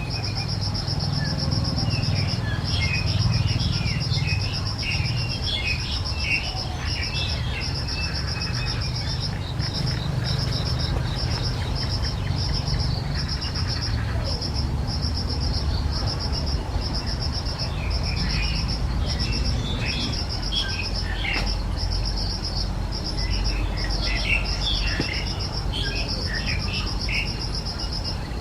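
An insect, cricket-like, trills steadily in a fast pulsing high note throughout. Small birds chirp over it in two busy bouts, one near the start and one in the last third, with a low rumble underneath.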